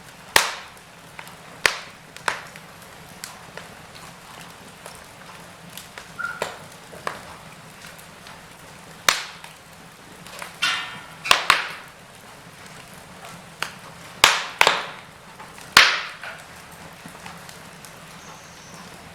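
Wood fire crackling: irregular sharp pops and cracks of varied loudness over a low steady hiss, with a brief sputtering hiss about ten and a half seconds in.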